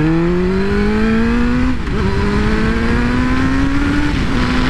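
Suzuki GSX-R600 inline-four engine accelerating through the gears. Its pitch climbs steadily, drops at an upshift about two seconds in, climbs again, and drops slightly at another shift near the end.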